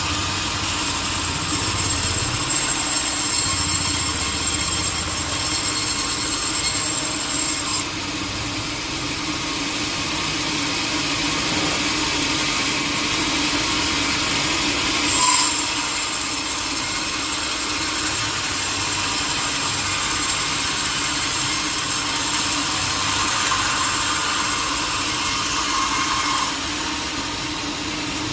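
Sawmill saw cutting through a teak log, a steady rasping cut over a low machine hum. The noise shifts about eight seconds in, there is a brief sharp hit around the middle, and it drops slightly near the end.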